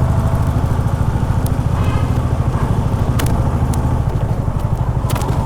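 Honda H'ness CB350's single-cylinder engine running steadily with an even low thump, with a couple of sharp clicks, one about three seconds in and one near the end.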